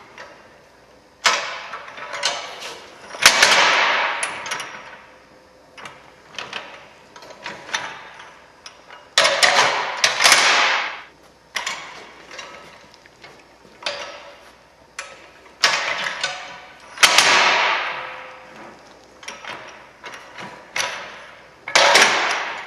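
Aluminum convertible hand truck being handled and converted: repeated metal clanks and clicks, with rattling, scraping bursts of a second or two that die away.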